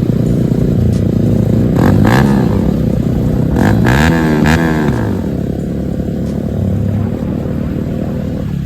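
Bajaj Pulsar NS200 single-cylinder engine through an aftermarket Akrapovic exhaust, running on the move. The revs rise and fall briefly about two seconds in, and again, longer, around four seconds in, with short crackles near those revs.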